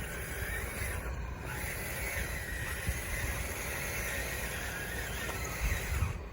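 RC model bulldozer's electric drive motors and gearboxes whining, the pitch wandering up and down as it works, over a low rumble.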